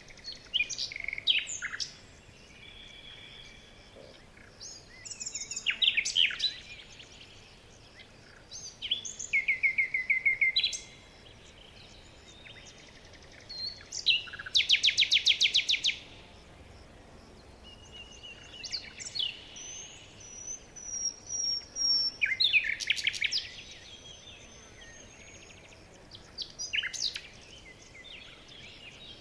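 Songbirds singing in turn, with short phrases of chirps and whistles every few seconds. The loudest is a fast, evenly repeated trill about halfway through.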